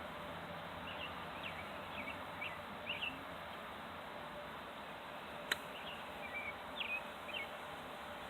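Small birds chirping in short calls, in two spells, over a steady background hiss. A single sharp click sounds about five and a half seconds in.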